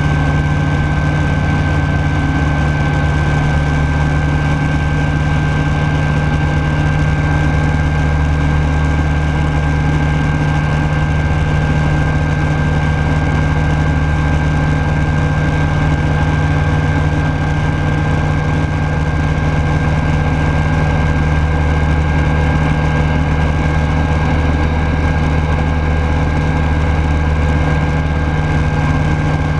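Rotax 912S flat-four engine and propeller of a Rans Coyote S6 ultralight running steadily in flight, a constant drone heard from inside the cockpit.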